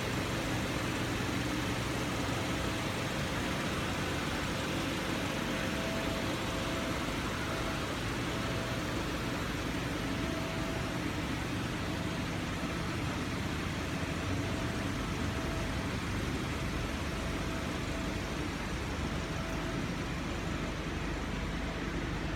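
2013 Hyundai Santa Fe Sport's turbocharged 2.0-litre four-cylinder engine running steadily, with no revving.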